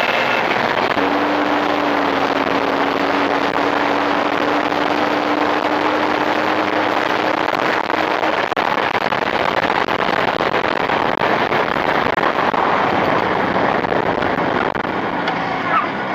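Motorcycle engine, freshly rebuilt on Chinese cylinders and being run in, running steadily under load while riding, with wind rushing over the microphone.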